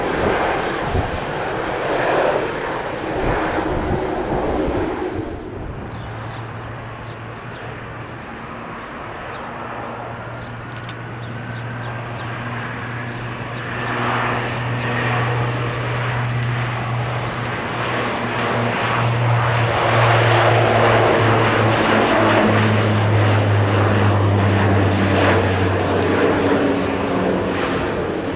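Bombardier Dash 8 Q400 turboprop taking off: a steady low propeller drone over engine noise, swelling to its loudest in the second half as the aircraft comes by at take-off power. Before a cut about five seconds in, the tail end of another aircraft's noise is heard.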